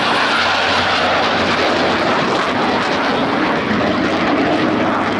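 Loud, steady jet noise from Blue Angels F/A-18 Super Hornets in flight.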